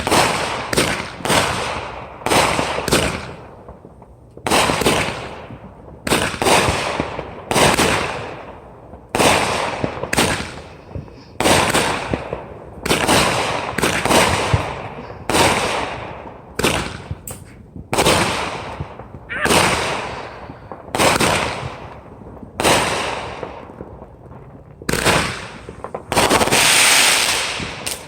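Consumer multi-shot firework cake firing shot after shot, a sharp bang roughly every second, each dying away quickly. Near the end comes one longer burst of about two seconds.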